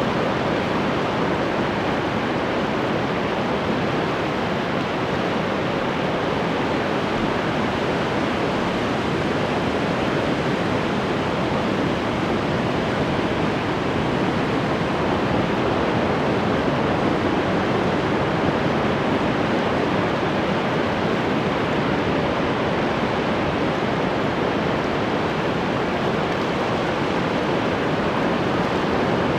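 Ocean surf: a steady, even wash of waves with no single wave break standing out.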